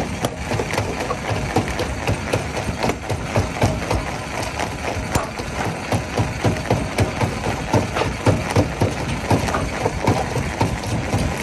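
Stone crusher running under a steady machine drone, with rapid, irregular knocks and clatter of rock being broken.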